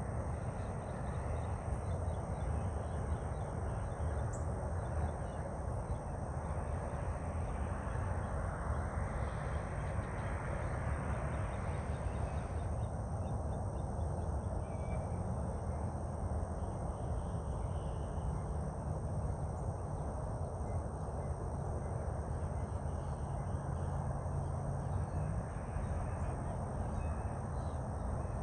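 Steady outdoor background noise with a heavy low rumble, swelling for a few seconds about eight seconds in.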